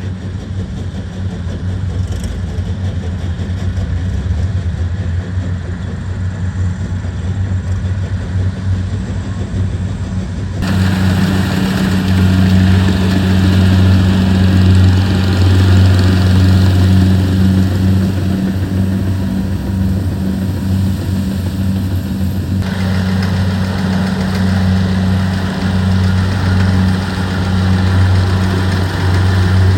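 Rice combine harvesters running steadily under load, a deep engine drone with threshing and machinery noise over it. The sound jumps abruptly about ten seconds in, getting louder with more hiss, and shifts again about two thirds of the way through.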